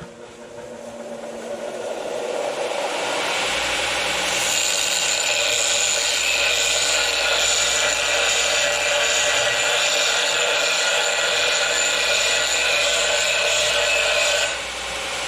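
Electric power tool working on steel exhaust pipe during prep. It builds over the first few seconds, runs loud and steady with a whine in it, and eases briefly near the end.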